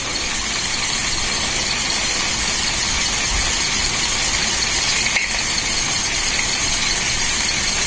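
Lego Technic battery-powered motor driving the pneumatic compressor pumps, running steadily with a continuous whirring hiss.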